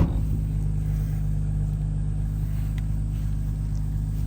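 Car engine idling steadily and evenly, a smooth low hum.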